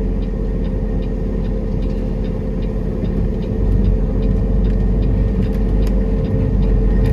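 Semi truck's diesel engine running under way, heard from inside the cab: a steady drone with a low rumble that grows somewhat louder about three and a half seconds in.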